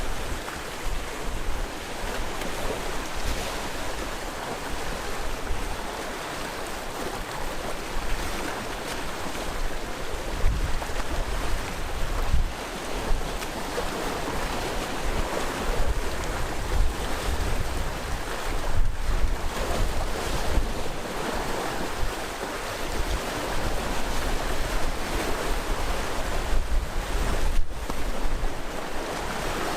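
Sea waves breaking and washing ashore in a continuous surging wash, with gusts of wind rumbling on the microphone.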